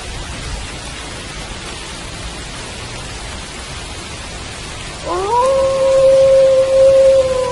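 Steady rain falling throughout, with a single wolf howl about five seconds in that rises quickly and then holds one long, steady note.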